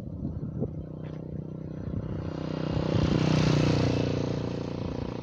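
A motor vehicle passing by, its engine and road noise swelling to a peak about three and a half seconds in and then fading, over a steady low engine hum.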